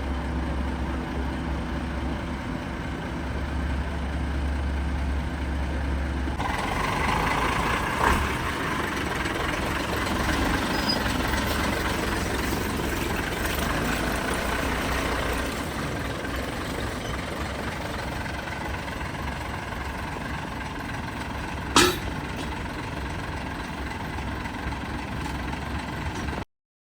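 Dump truck's diesel engine running: a steady low idle, then from about six seconds in a louder, fuller engine sound, with a brief sharp burst about two-thirds of the way through. The sound cuts off just before the end.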